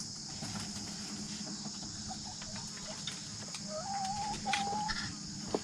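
Domestic chickens clucking, with one drawn-out hen call about four seconds in, stepping up slightly in pitch partway through, among scattered light clicks.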